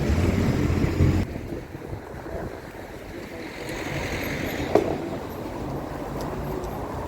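Strong gusting wind buffeting the microphone, a low rumble that is loudest for the first second and drops sharply, then a lighter steady rush. A single sharp click near five seconds.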